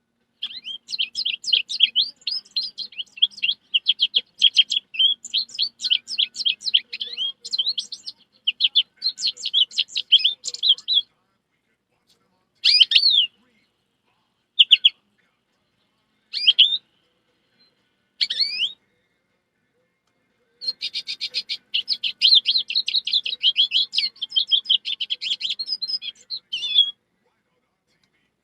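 High-pitched bird-like chirping: a long run of rapid chirps, then four single chirps spaced a second or two apart, then another fast chirping run near the end.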